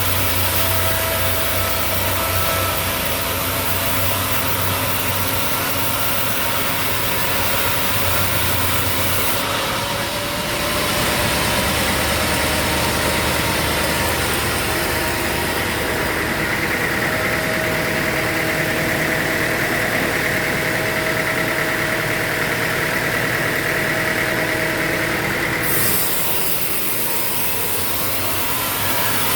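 Sawmill machinery running steadily with an engine-like hum; partway through, a higher whine builds and holds, then cuts off suddenly near the end.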